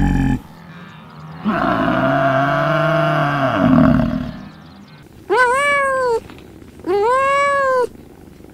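A water buffalo moos once, a long, low call lasting a little under three seconds. Then a kitten meows twice, short mews that rise and fall in pitch, about a second and a half apart.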